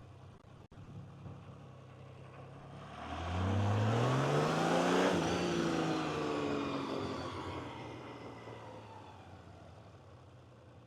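Honda CBX1000 six-cylinder motorcycle accelerating past: the engine note climbs as it approaches, drops in pitch as it goes by, then fades away.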